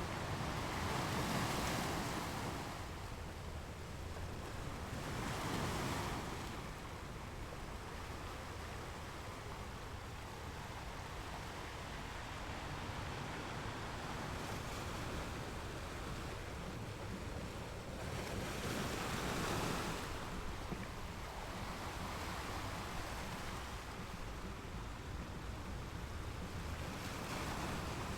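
Gentle ocean surf: a steady wash of water, with a wave breaking and swelling louder near the start, about six seconds in, about nineteen seconds in and near the end.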